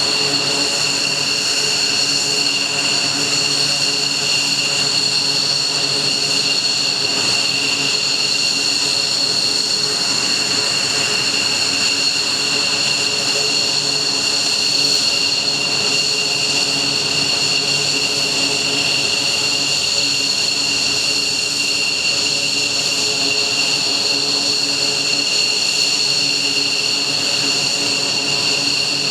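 F-15J fighter's twin F100 turbofan engines running steadily after start-up, a constant high whine over a broad jet rumble.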